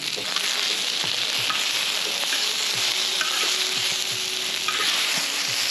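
Shrimp frying in hot oil, a steady sizzle with light knocks and scrapes of stirring scattered through it.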